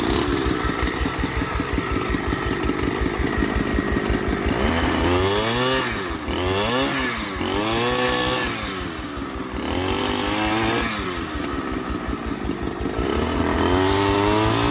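An engine running and being revved up and down over and over, each rev rising and falling in pitch about every one and a half to two seconds.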